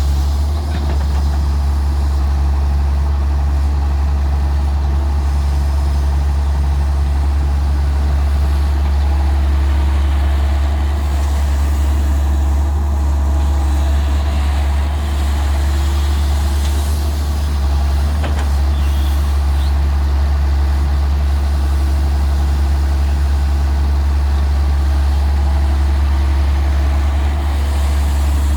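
Diesel engine of a Daewoo 170W-3 wheeled excavator running at a steady speed, a constant low drone.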